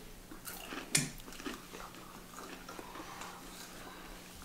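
A bite into a thin, crisp-fried strip of paddlefish, with one sharp crunch about a second in, then quiet chewing. A faint steady hum runs underneath.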